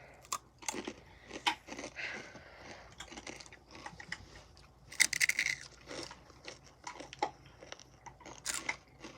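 Crunching and chewing of Takis rolled tortilla chips: irregular crisp crunches, with a louder burst of crackling about five seconds in.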